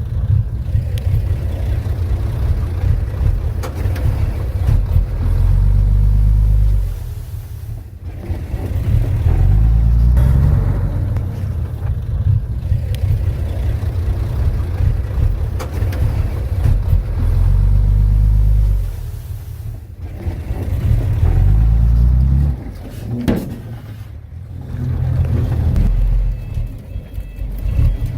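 Diesel engine of a Komatsu D31P crawler dozer working hard, its note revving up and dropping back several times, roughly every five to six seconds.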